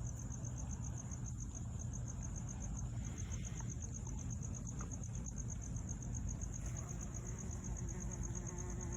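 A cricket trilling, a high note pulsing evenly about ten times a second, over the low hum of honeybees buzzing at the hive entrance.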